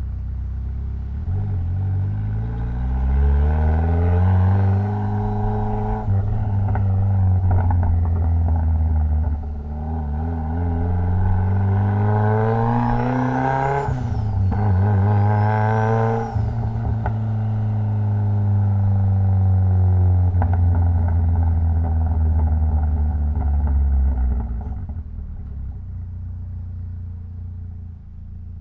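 Mitsubishi Lancer Evolution X's turbocharged 2.0-litre four-cylinder engine pulling hard through the gears, its pitch climbing in several rising pulls with short breaks at the shifts. It then holds a steady note and eases off near the end.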